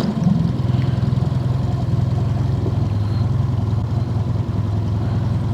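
Boat outboard motor idling with a steady low hum.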